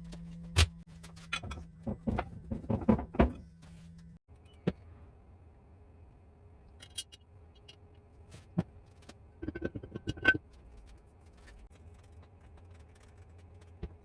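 Hard clinks and knocks of metal parts and tools being handled, a quick run of them in the first few seconds and another cluster near ten seconds, over a steady low hum.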